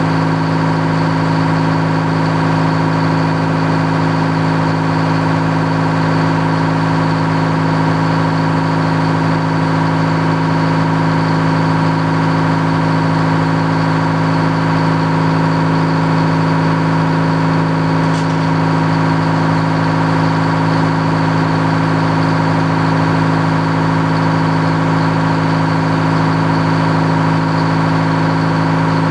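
Antique circular sawmill's engine running at a steady speed with an even hum, its load unchanging throughout, so no log is being cut.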